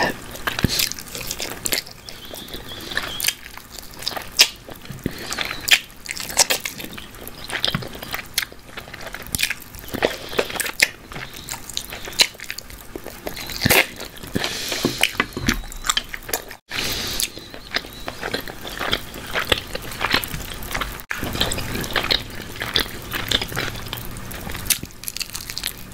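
Close-miked chewing and lip-smacking of barbecue chicken drumsticks: irregular wet clicks and smacks, biting into the meat. The sound cuts out for an instant twice, past the middle.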